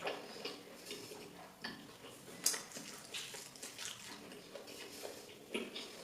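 Irregular light clinks and scrapes of a plate and utensils during a meal, the sharpest about two and a half seconds in.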